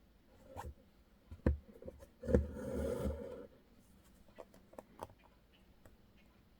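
Embroidery needle punching through taut fabric in a hoop with soft ticks, and the single strand of floss drawn through the cloth with a scraping rasp about two seconds in, during satin stitching.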